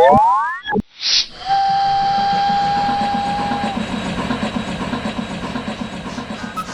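Cartoon steam train sound effect: a short hiss of steam, then one whistle blast held about two seconds over steady hissing and a pulsing low chugging rumble. It follows the tail of a rising, swooping synth music figure.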